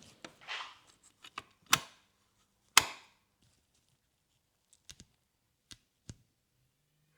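Scattered clicks and knocks of hand tools and parts being handled during motorcycle headlight work: about a dozen short, sharp clicks with long gaps between them. The loudest comes a little under three seconds in, and a brief rustle comes in the first second.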